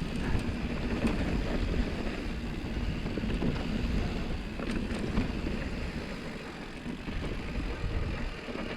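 Mountain bike rolling over a dusty, loose dirt trail: a steady rumble of tyres on dirt with wind on the microphone, and a few short clicks and rattles from the bike.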